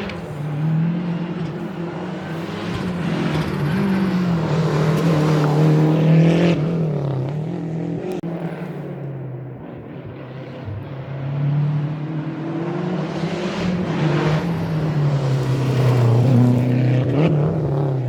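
Historic rally car engine at speed on a special stage, revving up and dropping back through gear changes. It gets loud twice, about six seconds in and again near the end, with a dip in between.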